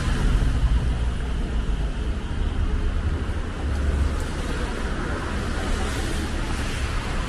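Steady low rumble and hiss of road traffic on a city street.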